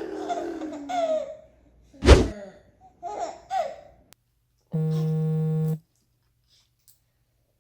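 A baby's voice, with a short loud low thump about two seconds in and two brief giggles after it, then a flat, steady buzzing tone lasting about a second.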